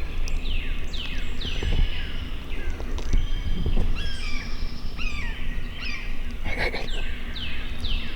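Morning woodland birdsong: songbirds repeating quick downward-slurred whistles, with a harsher, rougher call about six and a half seconds in, over a steady low rumble.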